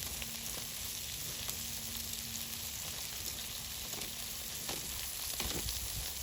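Meat sizzling and crackling steadily in hot fat on a grill pan.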